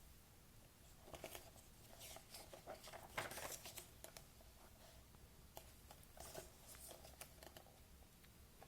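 Near silence: room tone with faint, scattered clicks and rustles, densest in the first half.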